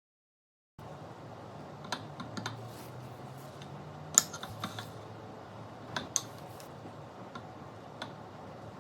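Scattered light clicks and taps, about eight in all at uneven intervals, the sharpest about four seconds in and another about six seconds in, over a steady low room hum that cuts in just under a second in.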